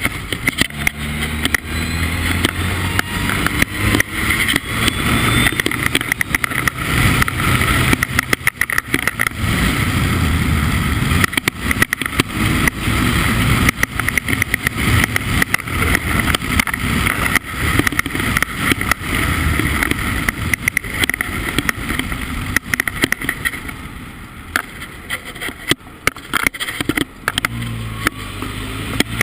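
Formula Ford race car engine running hard at speed, its pitch rising as it accelerates in the first several seconds, then easing off for a moment a few seconds before the end.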